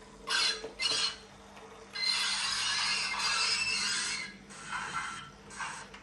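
Recorded sounds of loose-coupled goods wagons being shunted, played through the small loudspeaker of a Train Tech SFX70 sound capsule, so they sound thin and tinny. Two short clanks in the first second, a longer rattling, scraping stretch from about two to four seconds in, then two more short clanks near the end.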